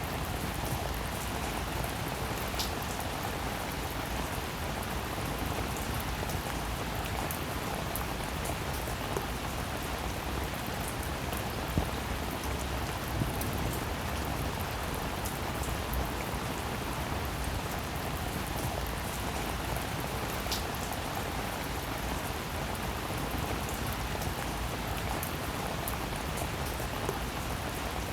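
Steady rain falling, an even patter with a few sharper single drop hits now and then.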